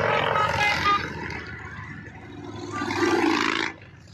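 Motorcycles passing close by, engines running loud. One swells in the first second, another passes around three seconds in, and the sound drops off just before the end.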